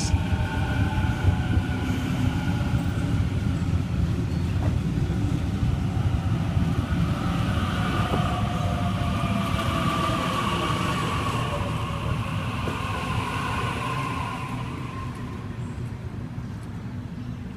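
Waratah A-set electric train pulling into the platform: a steady rumble of wheels with the electric traction whine sliding down in pitch as it brakes, fading over the last few seconds as it comes to a stop.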